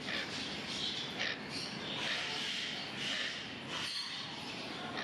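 Many parrots chattering and squawking at once, a steady din of overlapping calls.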